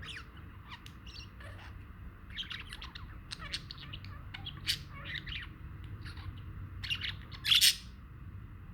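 Budgerigars chattering: a run of quick, short chirps and tweets, with one louder, harsh squawk near the end.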